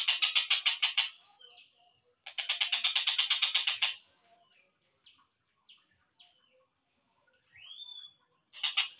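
Slowed-down recording of a tengkek buto kingfisher calling: two series of rapid, evenly repeated harsh notes, about eight a second. These are followed by scattered short chirps, a rising whistle, and a brief series again at the end.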